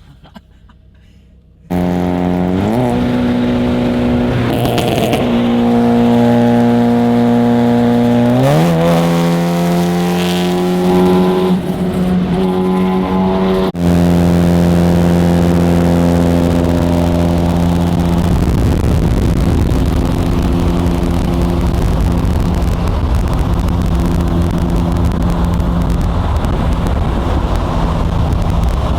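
Car engine running loud and steady. It comes in suddenly, climbs in pitch twice and holds each new pitch, breaks off sharply about two-thirds of the way through and runs on with more rushing noise.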